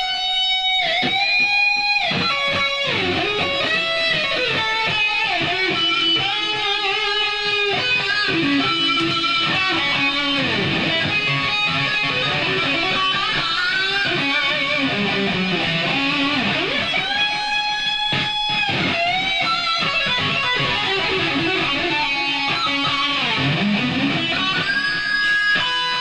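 Electric guitar played solo, with lead lines of long held notes and string bends.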